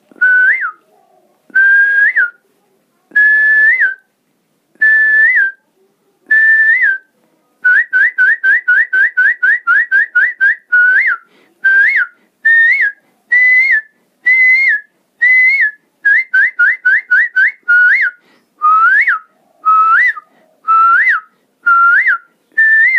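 A man whistling an imitation of the Asian koel's call: loud, clear whistled notes repeated about once every second and a half, each held briefly and ending in a quick upward flick. About a third of the way in, and again past the middle, the notes come in fast runs of short calls, about five a second.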